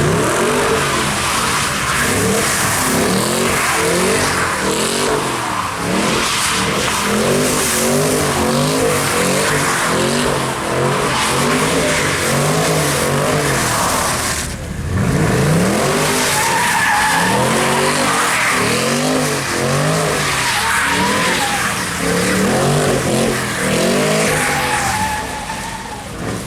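A car engine revving up and down over and over while its tyres spin and skid through donuts, with a steady hiss of spinning tyres. About halfway through the sound drops briefly, then the engine revs up again and the cycling carries on.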